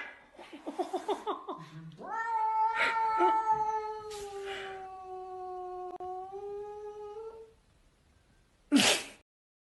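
Domestic cat caterwauling: a quick string of short chirping cries, then one long drawn-out yowl lasting about five seconds. A brief sharp sound follows near the end.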